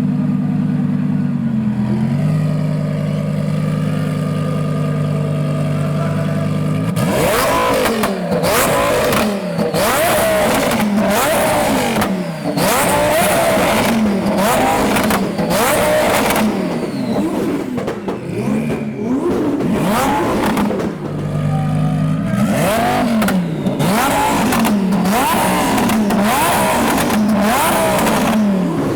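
Twin-turbo Audi R8 RWS V10 idling steadily, then revved hard over and over from about seven seconds in, with loud backfire pops and bangs from the exhaust as it shoots flames. It settles briefly back to idle about two-thirds of the way through before the revving and banging start again.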